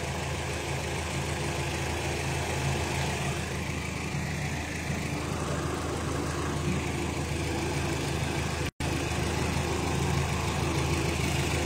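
A car engine idling steadily. The sound cuts out completely for a split second about nine seconds in.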